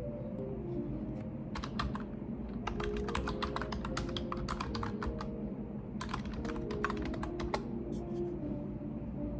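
Computer keyboard typing: several bursts of quick keystrokes with short pauses between them.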